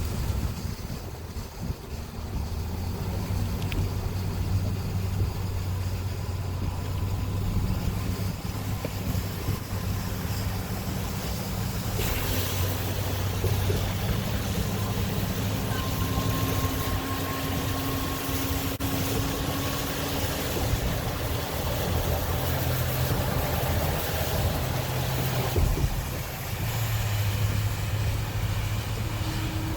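An engine running steadily, its low hum shifting a little in pitch, under wind noise that grows louder about twelve seconds in.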